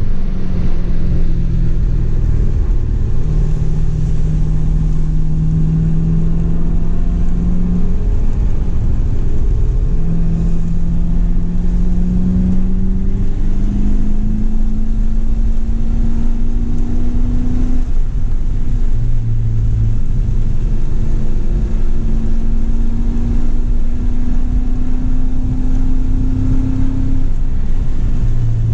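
C7 Corvette Grand Sport's 6.2-litre V8 heard from inside the cabin under way. Its pitch climbs slowly through several long pulls of a few seconds each and drops back between them, with the lowest dip about twenty seconds in.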